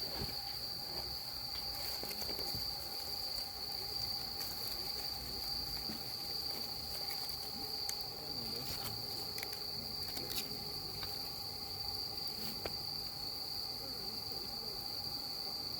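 Crickets trilling in a steady, unbroken high chorus, with scattered faint clicks and pops.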